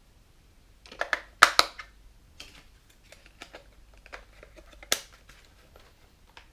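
AA batteries being loaded into a plastic RC transmitter's battery compartment: a cluster of clicks and knocks about a second in, scattered small ticks of handling, and a sharp click near five seconds.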